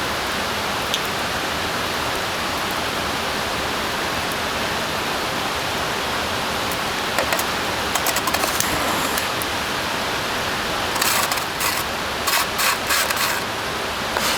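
Steady rain falling on the forest, an even hiss. Two short clusters of sharp ticks and clicks stand out over it, about halfway through and again near the end.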